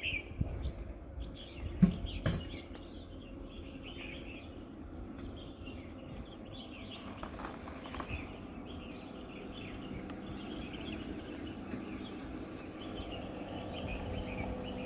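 Small birds chirping over and over, with a steady low hum underneath. A couple of sharp knocks come about two seconds in.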